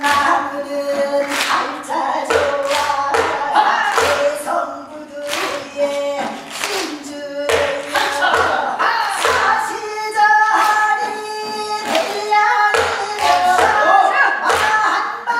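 Voices singing Gyeonggi-style hwimori japga, a rapid-patter Korean folk song, in a bending, ornamented line. Sharp percussive strokes fall roughly once a second.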